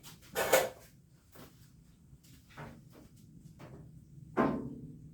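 A handful of separate knocks and clanks of tools or parts being handled, the loudest near the start and another about four seconds in that rings briefly.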